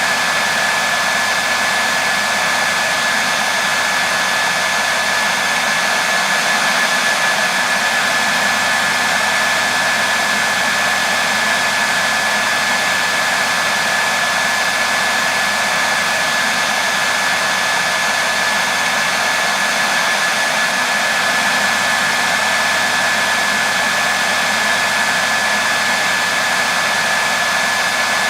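Hair dryer blowing steadily on one setting: an even rush of air with a thin high whine from its fan motor.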